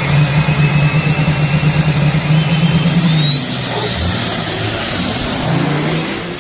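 Racing truck engine running under acceleration, with a thin high whine that climbs steadily in pitch; the low engine drone changes about three seconds in.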